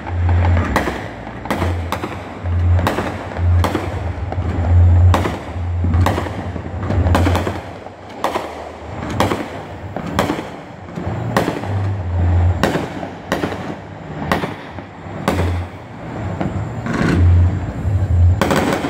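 Fireworks going off all around: dozens of sharp bangs at irregular intervals, often more than one a second, over a continuous din of more distant bangs and crackle.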